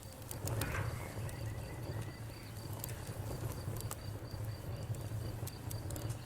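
Campfire crackling with scattered sharp pops over a steady low rumble, while a cricket chirps in a fast, even, high-pitched pulse throughout.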